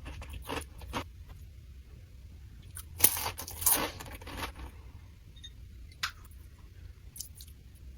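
Close-miked eating sounds: a few crisp crunching bites and chews of a crunchy snack, the loudest cluster about three seconds in, with quiet gaps between.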